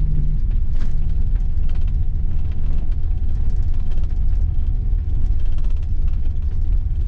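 A steady, loud low rumble with no clear tones or rhythm.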